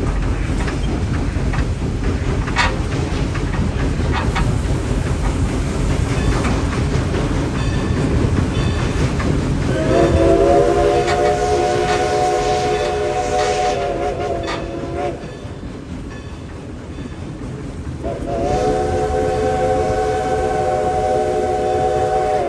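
Excursion train rumbling along the rails with a few clicks from the track. The 1920 Alco steam locomotive No. 11 blows its chime whistle in two long, steady blasts: the first about ten seconds in, lasting some five seconds, and the second starting near the end.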